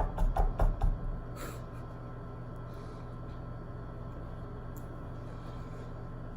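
A quick run of about six short knocks or bumps in the first second, then a steady low hum.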